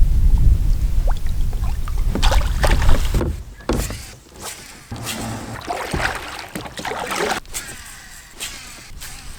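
Low wind rumble on the microphone for the first couple of seconds, then irregular water splashing and sloshing beside a kayak for several seconds, easing off near the end.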